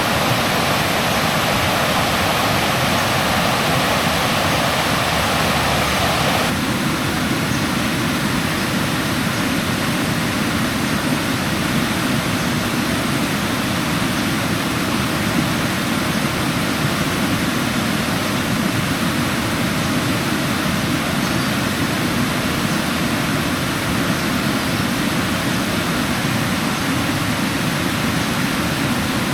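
Steady rush of river water tumbling over rocks in small cascades. Its tone changes about six seconds in, becoming less bright.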